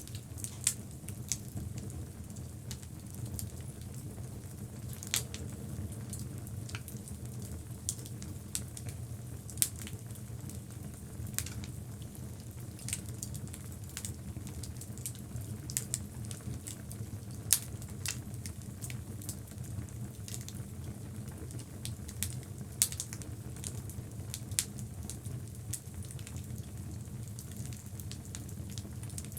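Logs burning in a fireplace: a steady low flame noise under irregular crackles and pops of the wood, a handful of them louder snaps.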